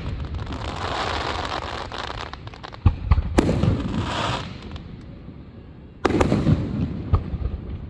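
Fireworks going off: a crackling fizz of bursting stars, broken by sharp bangs about three seconds in and again about six seconds in.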